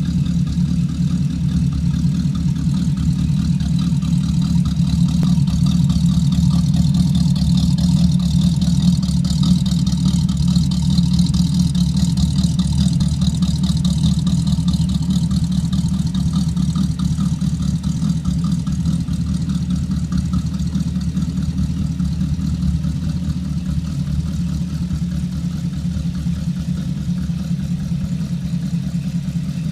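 Hot-rodded 1932 Ford roadster's engine idling steadily through open headers, a little louder in the middle.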